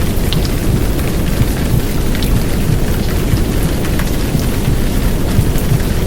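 Heavy downpour rain mixed with a deep, steady womb-sound rumble, with scattered faint drop ticks above it.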